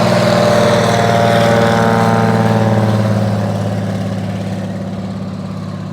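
Floatplane's piston engine and propeller droning, dipping slightly in pitch and fading away from about three seconds in as the aircraft moves off.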